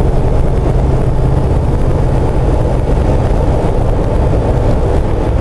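Jeep Wrangler JK's swapped-in Chevy 5.3 V8 pulling steadily at highway speed under cruise control up a slight grade, heard with road and wind noise from the cabin.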